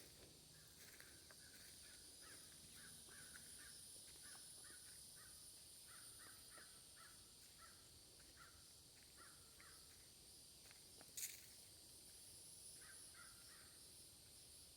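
Faint crows cawing over and over in quick runs of short calls, over a steady high-pitched hiss. One sharp click comes about eleven seconds in.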